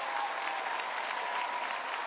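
Studio audience applauding steadily, the clapping slowly fading.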